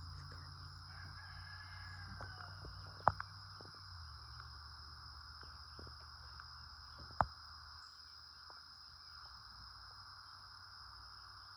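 A faint, drawn-out distant bird call about a second in, over a steady high drone of insects. Two sharp clicks, a few seconds apart, are the loudest sounds.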